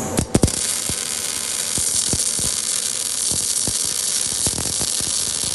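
MIG welding arc on a steel T-joint, running 0.8 mm wire at 130 amps. A steady frying crackle starts abruptly with a few sharp cracks as the arc strikes, and sharper pops recur every third to half second.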